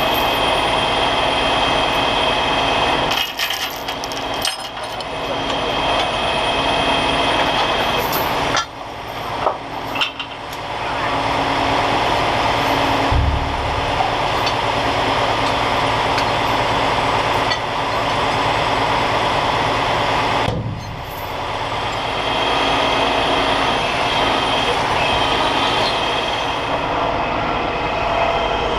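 Heavy truck's diesel engine running steadily and loudly, with a few brief dips in level.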